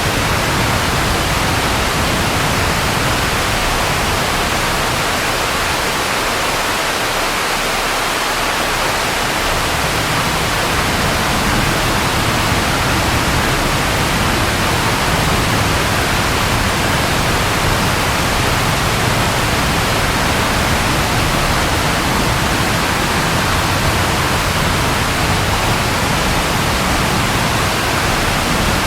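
Steady rain falling, a dense even hiss with no separate drops or thunderclaps.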